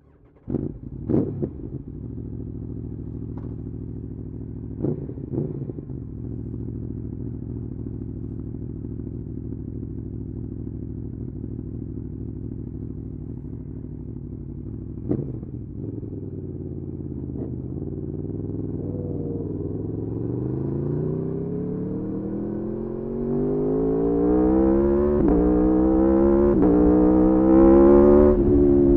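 Aprilia Tuono V4's V4 engine idling, with a few sharp throttle blips at the start and a couple more later. About twenty seconds in, the revs climb steadily as the bike pulls away, stepping down briefly twice at gear changes and easing off near the end.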